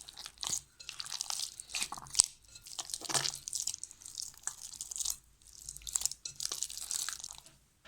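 Hands kneading soft flour dough slicked with cooking oil and ghee, giving irregular wet squishing and squelching sounds.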